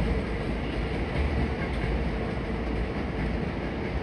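Hankyu electric train running over the station tracks: a steady low noise with a faint hum.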